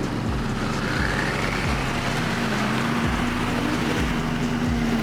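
A car engine droning steadily with road noise, its pitch creeping slightly upward.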